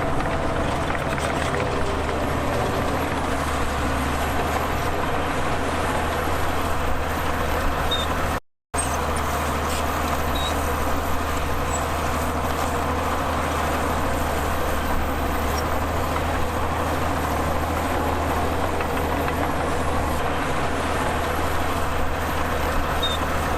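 Heavy diesel earthmoving machinery, bulldozer and dump truck engines, running steadily with a deep low hum. The sound cuts out for a split second about a third of the way through.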